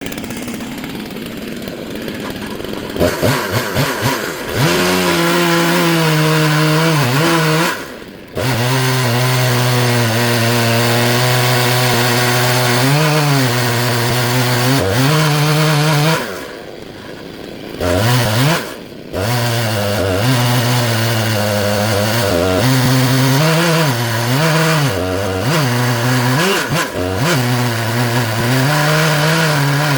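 Stihl MS 661 two-stroke chainsaw on an Alaskan mill, running at full throttle as it rips through black walnut. It starts quieter and throttles up about three seconds in. Its note wavers under load, drops back briefly a few times, and falls off for a couple of seconds in the middle before it revs back up.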